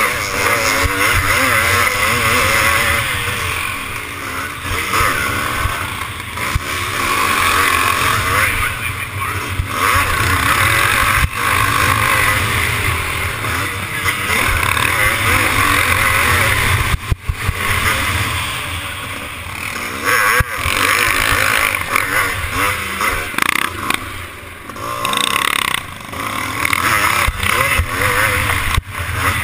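A motocross bike's engine at racing pace, its pitch repeatedly climbing and dropping back, over a dense rushing noise, with a few sharp knocks.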